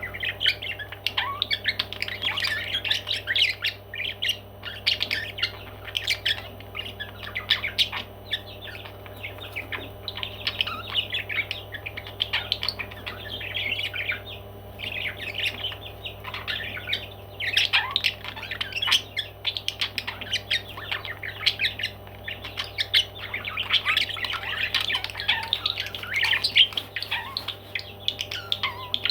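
Parrots chattering and squawking: a dense, unbroken run of short chirps and squawks.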